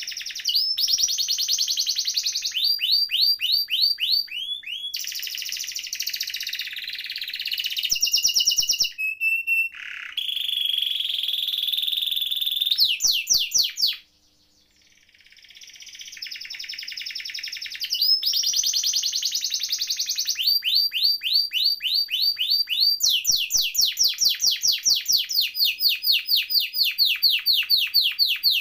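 Domestic canary singing a long rolling song of fast trills and rapidly repeated high notes. It breaks off for about a second halfway through, then starts again.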